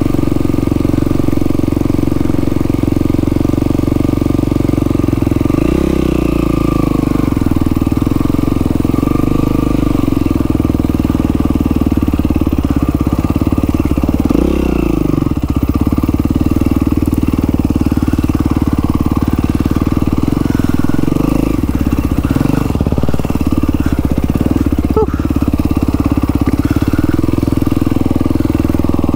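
Yamaha WR450F's single-cylinder four-stroke engine running steadily on a trail ride. Its revs dip and pick back up a few times as the throttle is rolled off and on.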